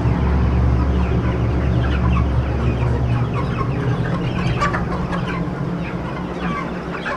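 A flock of chickens clucking and chirping, many short calls overlapping from about two seconds in. A steady low hum under the start stops about three seconds in.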